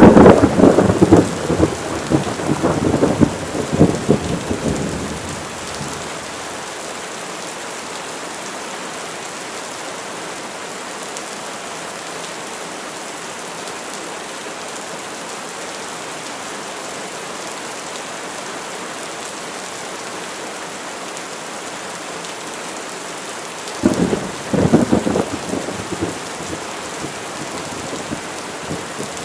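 Steady heavy rain with two claps of cracking thunder: one right at the start that rumbles on for about five seconds, and a second, shorter one about 24 seconds in.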